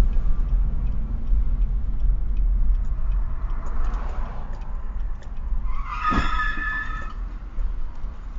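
Steady low rumble of a car driving, with a car horn sounding once for a little over a second about six seconds in.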